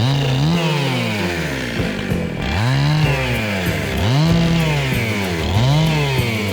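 Husqvarna 262XP two-stroke chainsaw revving up and down in repeated surges, about one a second, the pitch climbing and dropping each time as the saw is throttled.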